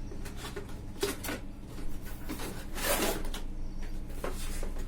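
Handling noise from the boxed fan: a run of scrapes, rustles and light knocks, loudest about three seconds in, over a steady low hum.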